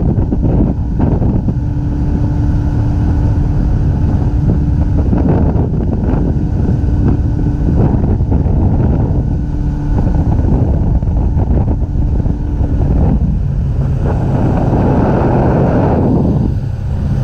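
Outboard motor of a bay boat running under way, with heavy wind buffeting the microphone.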